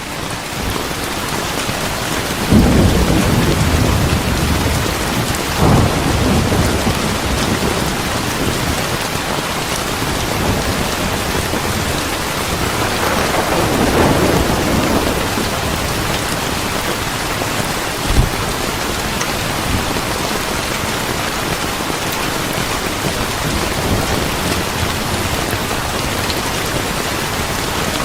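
Steady heavy rain with rolling thunder. One long rumble comes a few seconds in, another around the middle, and a brief sharp crack follows later.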